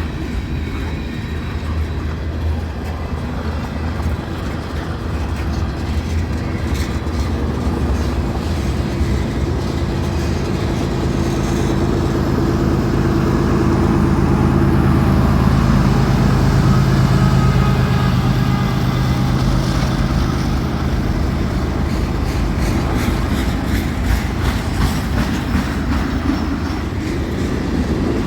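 Diesel-hauled train passing close by: a steady engine drone that builds to its loudest about halfway through, then eases off. Clusters of wheel clicks over rail joints come early and again through the second half.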